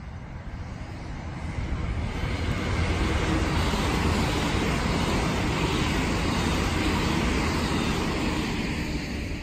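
Electric passenger train running past on the line, a steady rumble of wheels on rails that builds over the first two seconds, holds, and eases off near the end. A car passes on the road at the same time.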